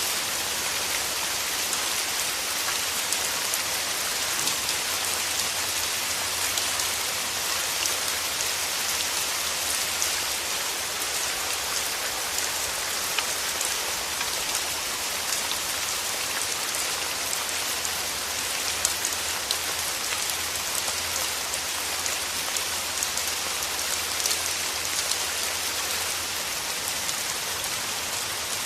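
Steady rain falling through forest trees: an even hiss of many individual drops hitting leaves, with no break or change.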